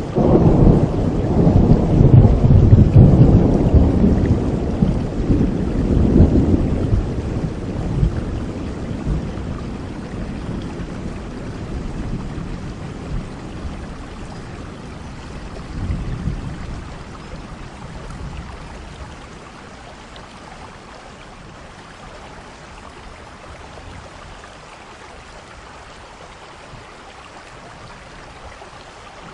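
Thunderstorm: steady rain falling with a long roll of thunder, loudest in the first several seconds and rumbling away over about fifteen seconds, with a smaller rumble near the middle. Afterwards only the rain is left.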